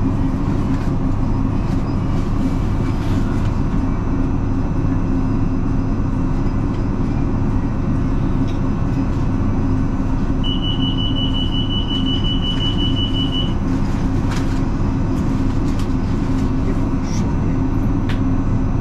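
Passenger train running along the line, heard from inside the carriage: a steady low rumble of wheels on rail. About halfway through, a high steady squeal sounds for roughly three seconds.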